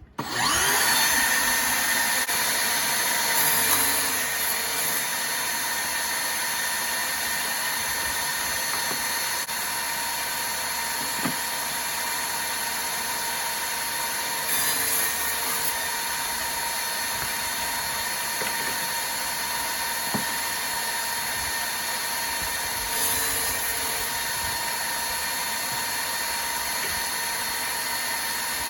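Homemade table saw starting up, its motor and blade spinning up in the first second, then running at steady speed with a high whine. The noise swells briefly three times, about 4, 15 and 23 seconds in.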